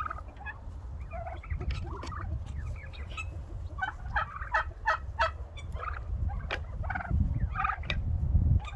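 A flock of domestic turkeys calling and gobbling in a string of short, sharp calls, thickest in the middle, over a low rumble.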